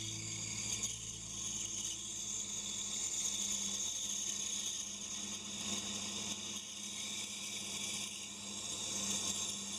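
Pégas scroll band saw running, its blade cutting through a thick block of wood with a continuous whir and high hiss.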